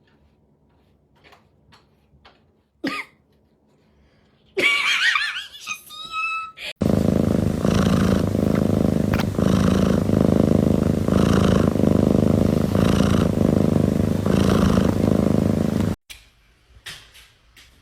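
Domestic cat purring loudly and close up, in a steady rumble that swells about once a second. It starts after a brief louder sound with gliding pitches about five seconds in, and cuts off suddenly near the end.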